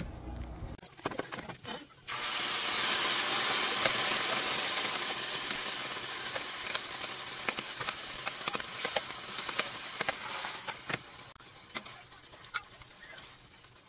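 Peaches frying in a hot cast-iron pan. A loud sizzle starts suddenly about two seconds in and slowly dies down, with scattered clicks.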